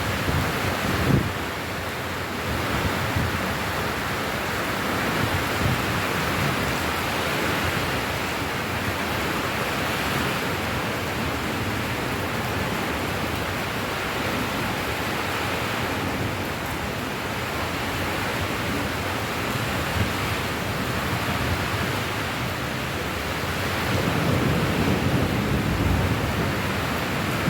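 Steady heavy rain, a dense even hiss. A low rumble of thunder swells near the end.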